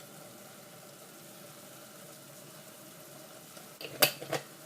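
Faint steady cooking sound of an onion-tomato masala with spice powders simmering in a pan, broken by two sharp taps about four seconds in.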